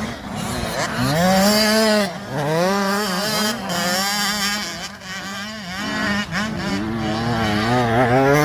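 Small two-stroke dirt bike engines racing: one climbs in pitch and drops back over and over as it accelerates and shifts, over the steady drone of another engine.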